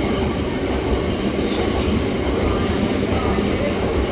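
Class 60 diesel-hauled biomass freight train running through, a steady loud rumble of locomotive and wagons on the rails.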